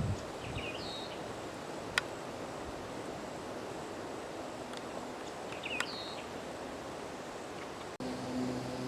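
Woodland ambience: a steady outdoor hiss with a small bird giving the same short, high call twice, a few seconds apart, and a couple of sharp clicks. A low, steady hum starts near the end.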